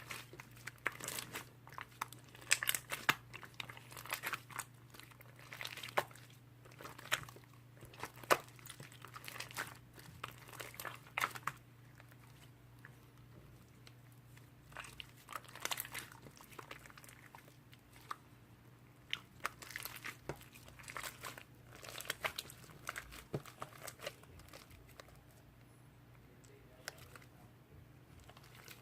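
Slime being squeezed and pressed by hand, making irregular clusters of crackling, crunchy clicks that ease off for a few seconds twice. A faint steady low hum runs underneath.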